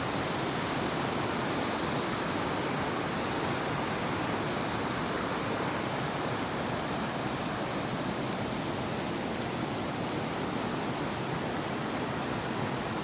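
Steady, unbroken rush of flowing water, the roar of a waterfall or fast stream, with no distinct events.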